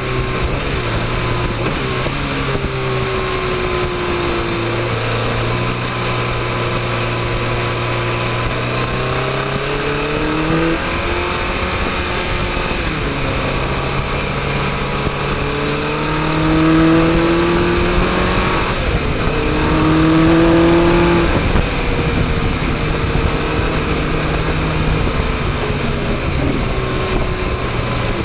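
Motorcycle engine heard from on board while riding, its pitch climbing and dropping again and again with throttle and gear changes, over a steady rush of wind. It pulls harder and louder twice, at about 16–18 and 19–21 seconds in.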